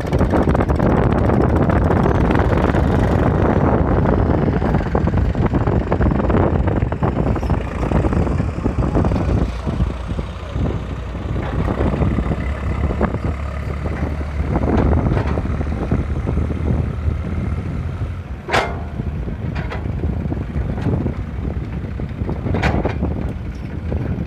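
Eicher 380 tractor's diesel engine running hard, labouring under a heavy load it struggles to pull. Two short sharp sounds cut through it near the end.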